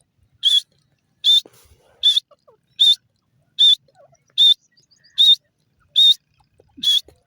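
Grey francolin calling: a loud, sharp call repeated at an even pace, nine times, about one every 0.8 seconds.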